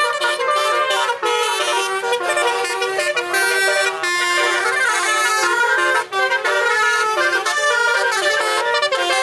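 Truck basuri, a multi-trumpet musical air horn, playing a tune. It runs continuously, with the notes stepping up and down several times a second.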